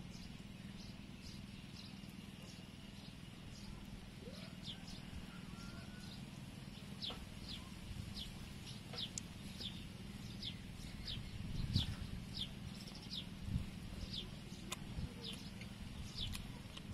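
Birds chirping outdoors: a run of short, high, slightly falling chirps, sparse at first and then about two a second, over a faint steady low hum. A few sharp clicks and soft knocks, likely a spoon against the bowl, come through, the loudest about twelve seconds in.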